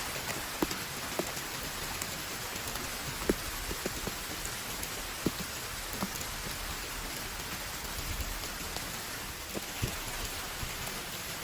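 Heavy rain falling steadily, with scattered louder drops striking close by as sharp irregular taps.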